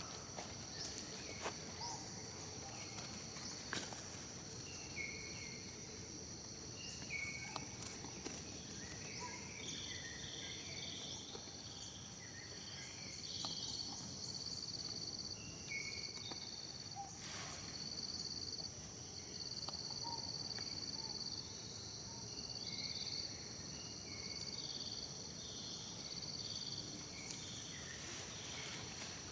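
Outdoor ambience of insects droning steadily at several high pitches, with scattered short, high chirps and the odd faint click.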